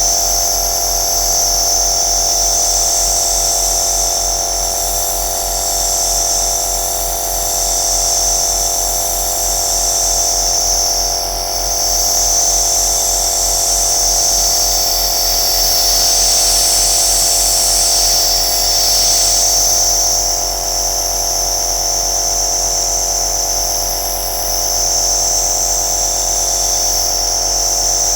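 Compressor nebulizer running steadily: a motor hum with a whine of several steady tones and a high hiss of air and mist that dips slightly now and then.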